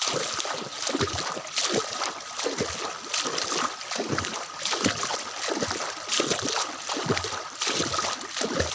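Footsteps wading through shallow floodwater, splashing at an uneven walking pace.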